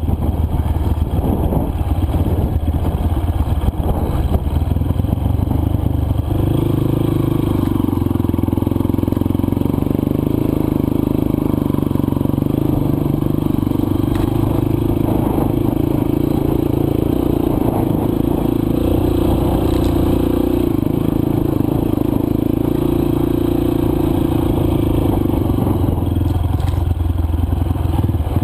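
Dirt bike's single-cylinder four-stroke engine running while riding a trail, with scraping and clattering from the bike over loose, dry ground. The engine settles into a steadier, higher note from about six seconds in until near the end.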